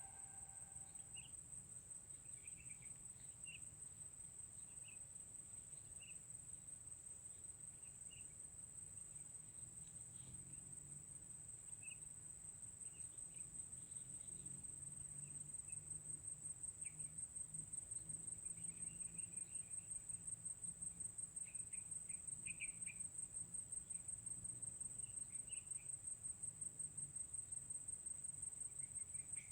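An insect trilling continuously at a very high pitch, a steady fast-pulsed buzz that pulses more strongly in the second half. Faint short chirps are scattered through it.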